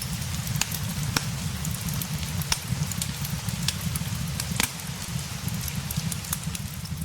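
Crackling wood fire with irregular sharp pops, mixed with steady rain over a dense low rumble.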